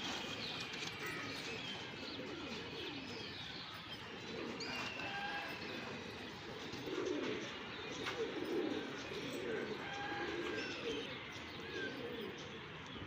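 Domestic pigeons cooing over and over, several birds overlapping, busiest in the second half, with small birds chirping in short high notes throughout.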